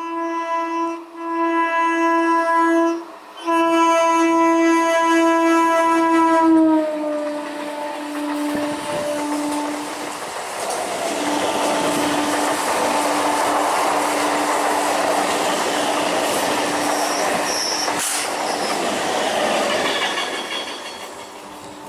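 Indian Railways EMU local train's horn sounding three short blasts and then one long blast that drops in pitch as the train reaches the camera. It is followed by the loud running noise and wheel clatter of the coaches passing at speed, fading near the end.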